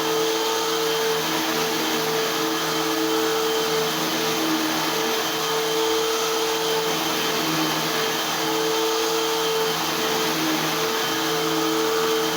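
Eureka AirSpeed Unlimited Pet vacuum cleaner running steadily, with a constant high whine over the airflow noise and a lower hum that swells and fades every second or two.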